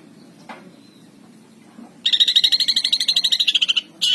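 Long-tailed shrike (cendet) singing: after a faint short note, it gives a loud, rapid, even trill of about ten notes a second for almost two seconds, part of the mimicked song used to provoke competition birds.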